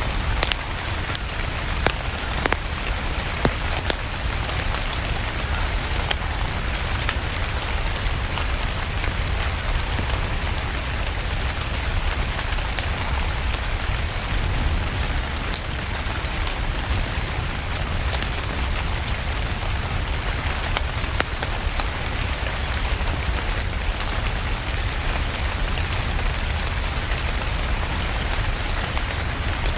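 Steady rain falling, with a low rumble underneath and frequent scattered sharp crackles from a wood fire burning in a fireplace.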